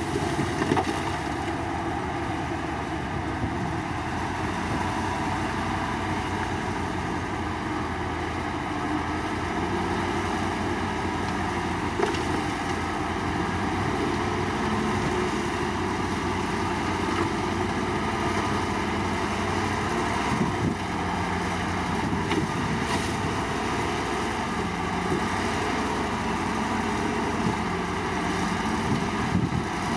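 Komatsu D53 crawler bulldozer's diesel engine running under work, its pitch rising and falling every few seconds as the load changes, with a few sharp knocks.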